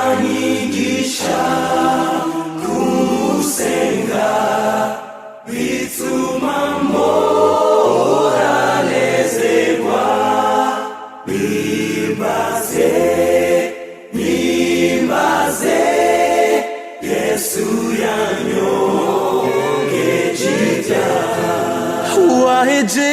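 Background music: a choir singing a Kinyarwanda worship song over a steady low accompaniment.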